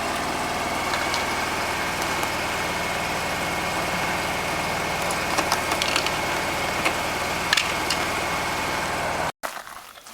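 An engine idling steadily, with a few light clicks and clinks over it; it cuts off abruptly near the end.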